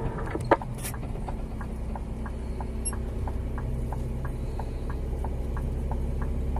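Scania G 410 truck's diesel engine running steadily at low revs, with an even light ticking about three times a second.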